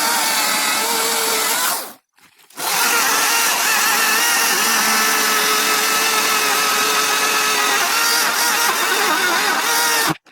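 Hart 14-inch battery-powered chainsaw running steadily under its electric motor during a run-to-battery-failure test. It dies away about two seconds in and comes back after about half a second, and cuts out briefly again at the end.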